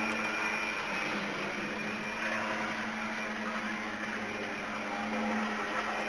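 Jouef BB27 model locomotive running with a homemade silicone-ring drive in place of its original gear transmission: its small electric motor gives a steady hum with a whirring noise over it.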